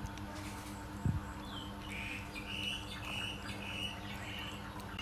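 A bird calling outdoors in a run of short, high chirps, with a single dull knock about a second in.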